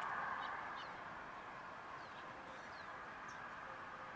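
Faint outdoor ambience: scattered short, high chirps from small birds over a soft hiss that fades during the first second.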